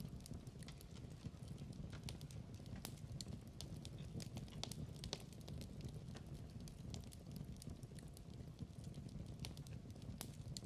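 Fireplace fire burning, with a steady low rumble and irregular sharp crackles and pops of burning wood.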